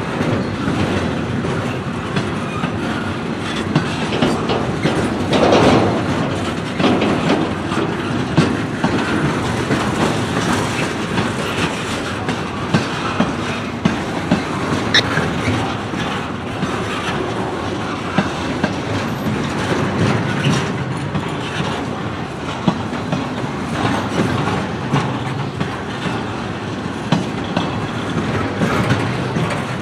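A freight train's cars rolling past, with a steady rumble and wheels clicking over the rail joints.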